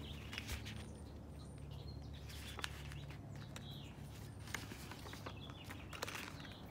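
Faint outdoor ambience: a few short, high bird chirps over a low steady hum, with a few soft clicks from a padded bubble mailer being handled.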